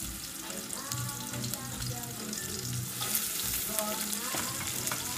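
Chopped onion sizzling in hot olive oil in a steel soup pot. About three seconds in, red bell pepper strips go into the oil and the sizzle gets louder.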